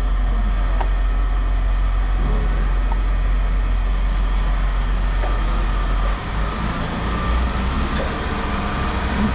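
An engine running with a steady low drone that drops away about six seconds in, leaving quieter machine noise.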